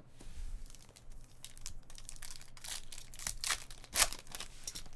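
A trading card pack's wrapper being torn open and crinkled, with a quick run of short scratchy rips and rustles; the loudest rip comes about four seconds in.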